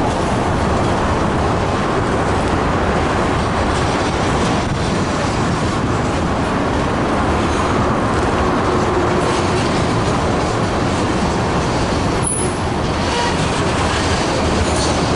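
Freight train rolling past close by: a loud, steady rumble of wheels on the rails.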